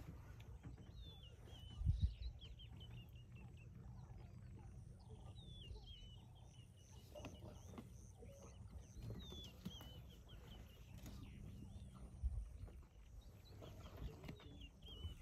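Birds chirping: short, high calls that dip and hook, coming in several runs, over a low steady rumble. There is a brief thump about two seconds in, the loudest moment, and a smaller one near the end.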